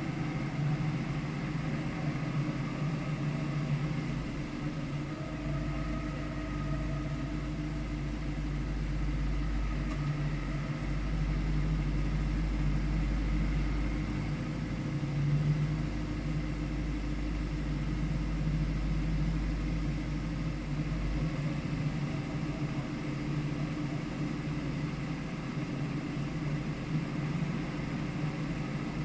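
Car engine running fairly steadily, with a deep low rumble from about 5 to 21 seconds in.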